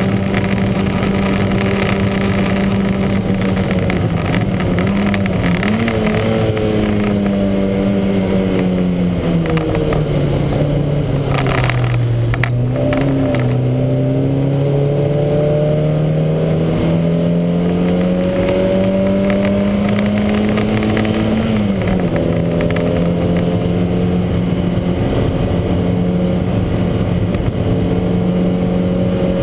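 Lancia Montecarlo's twin-cam four-cylinder engine at racing revs: the note holds high, falls away over several seconds, then climbs steadily under acceleration. It drops sharply at a gear change a little past two-thirds of the way through and then holds high again.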